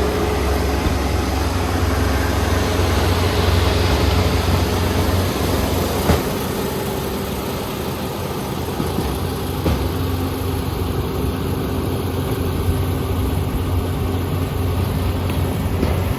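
Combine harvester engine running steadily at a constant speed, with one sharp click about six seconds in.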